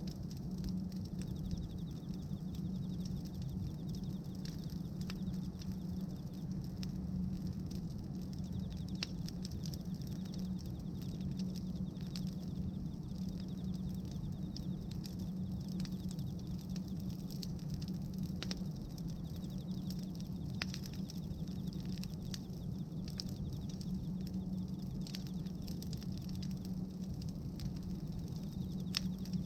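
Bonfire of pruned tree branches crackling, with many irregular sharp pops over a steady low rumble.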